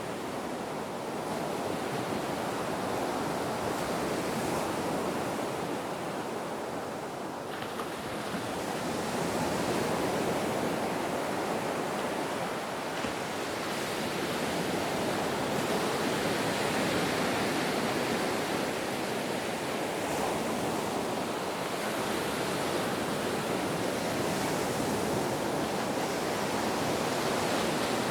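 Ocean surf washing steadily, the rushing noise swelling and easing over several seconds as waves break.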